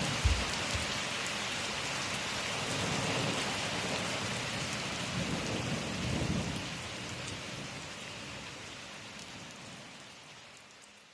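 Steady rain with low rumbles of thunder, fading out gradually over the last few seconds.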